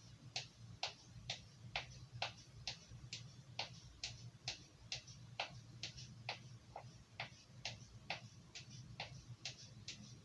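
Carving knife blade drawn across a sharpener in quick, even strokes, about two and a half a second, each a short scrape.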